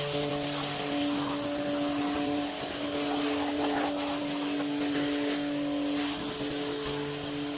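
Kärcher K2 Cordless pressure washer running during the rinse: a steady electric pump hum under the wide hiss of the water jet.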